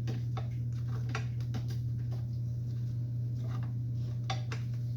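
Small metal parts of a chop saw clicking and tapping against each other as a part is worked into place by hand, over a steady low hum.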